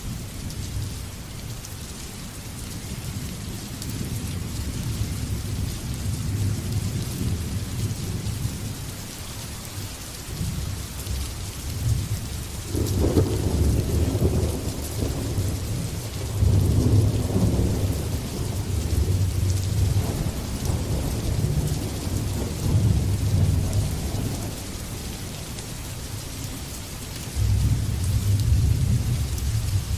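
Steady heavy rain with rolling thunder underneath. The thunder swells into a louder peal about halfway through and rumbles on in waves for several seconds, and a low rumble rises again near the end.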